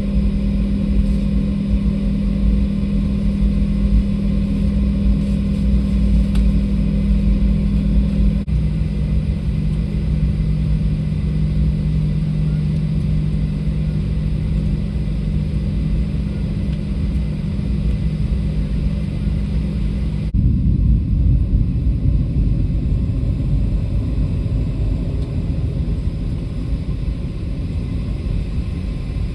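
Jet airliner cabin noise: a steady low rumble of engines and airflow with a steady hum that drops in pitch about eight seconds in and fades out after about twenty seconds, leaving only the rumble.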